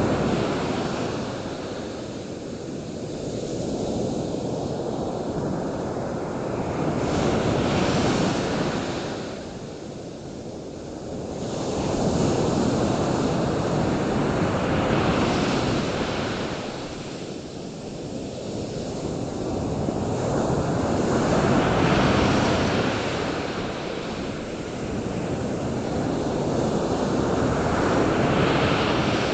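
Surf washing ashore, a rush of noise that swells and falls back every several seconds as waves break.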